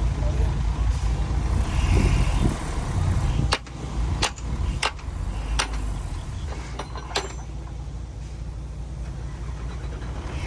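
Heavy diesel earth-moving machinery running with a deep rumble, loudest for the first few seconds and then quieter. Several sharp knocks come between about three and seven seconds in.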